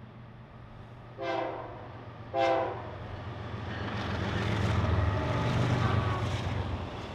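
Diesel freight locomotive's air horn sounding two short blasts, about a second apart. The lead locomotives then pass close by with a low engine rumble that grows loudest a few seconds later, followed by the rattle of the stack cars.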